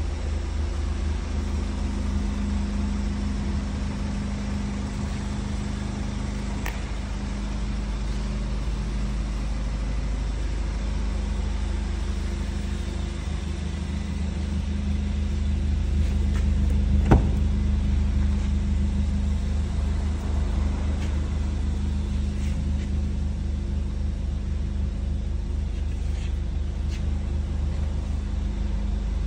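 Volkswagen Golf R's 2.0 TSI turbocharged four-cylinder petrol engine idling steadily with a low, even hum. A single sharp click comes about halfway through.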